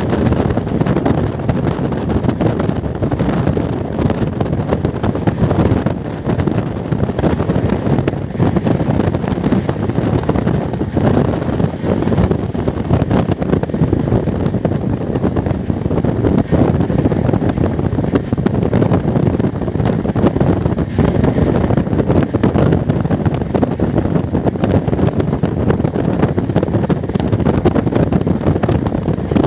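Wind rushing past the open door of a fast-moving passenger train, over the steady rumble and clatter of its wheels on the rails.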